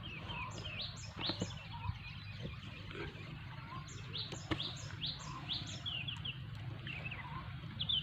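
Small birds chirping again and again in short rising notes over a steady low hum, with a few sharp clicks.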